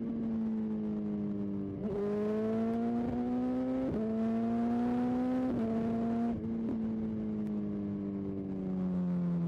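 BMW S1000XR motorcycle's inline-four engine accelerating through the gears: the engine note climbs steadily, drops sharply at each of about three upshifts, then the throttle closes about six seconds in and the note falls slowly as the bike rolls off.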